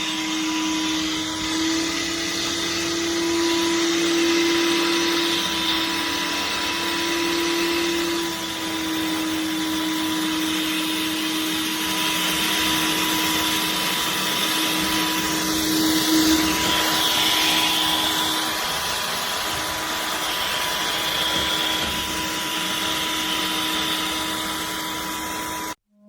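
Cordless upholstery and carpet cleaner, the Cecotec Conga Carpet&Spot Clean Liberty, running with a steady motor hum and suction hiss. The pitch wavers slightly now and then. It cuts off abruptly near the end.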